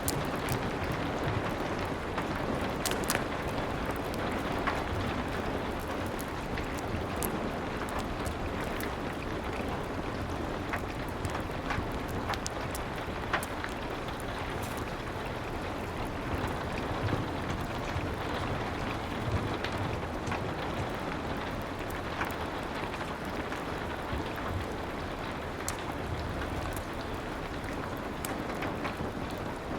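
Steady rain with scattered sharp pops and crackles from a wood fire.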